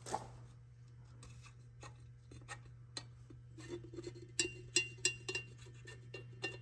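Faint light metallic clinks and rubbing, becoming a quick run of ringing clinks about three a second in the second half, over a steady low hum.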